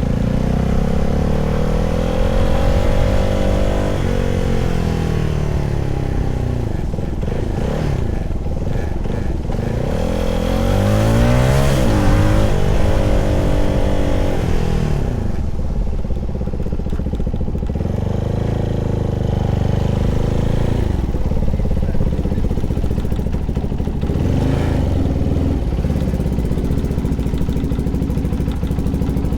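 CFMoto 300SR's single-cylinder engine running with its revs rising and falling several times. The pitch climbs steadily, then drops sharply about four seconds in.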